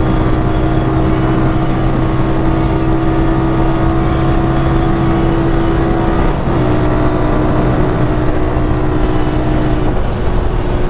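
Motorcycle engine running at a steady cruise, its note dipping briefly a little past halfway, with background music over it.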